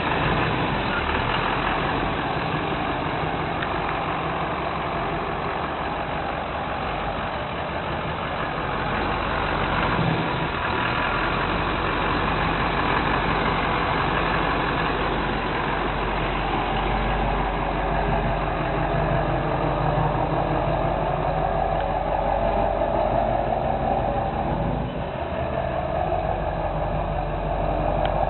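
Lifted Chevrolet Silverado pickup's engine idling steadily, with a brief dip in level about three-quarters of the way through.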